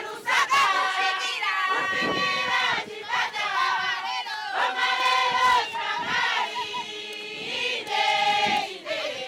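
A group of voices singing together, with several voices overlapping.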